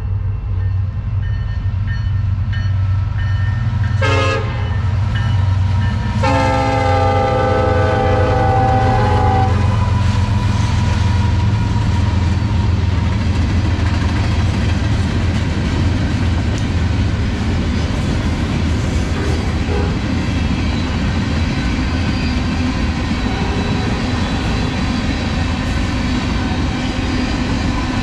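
Union Pacific freight train passing: the diesel locomotives rumble steadily and sound the horn, a short blast about four seconds in and a longer one lasting about three seconds soon after. The freight cars then roll by with a steady clatter of wheels on the rails.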